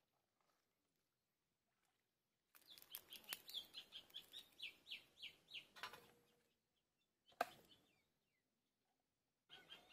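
Bird chirping: a run of short high notes at about three a second that starts abruptly a couple of seconds in, stops, and starts again near the end. A single sharp knock comes in between.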